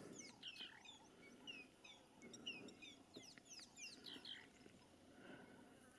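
Faint bird calls: many short, high chirps and slurred notes scattered through the first four seconds or so, over near silence.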